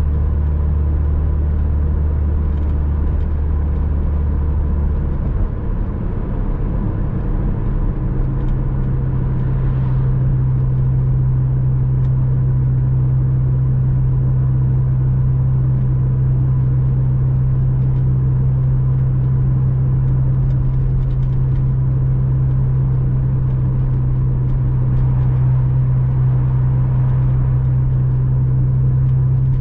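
Porsche Boxster 986 flat-six engine pulling the car along at a steady pace, with tyre and road noise. About five seconds in, the engine note steps up in pitch over a couple of seconds, then holds steady.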